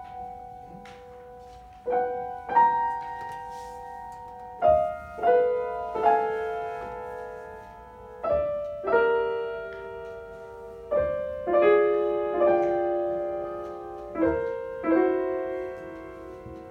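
Piano playing a slow, soft phrase: about a dozen single notes and chords, each struck and left to ring and fade into the next.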